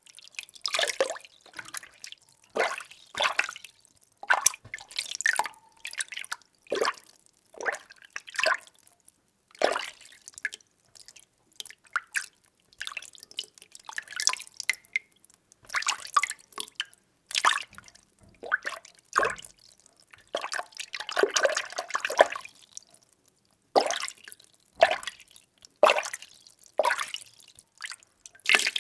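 Water being stirred, making a run of short sloshing splashes about once a second, with a longer continuous swirl a little past two-thirds of the way through.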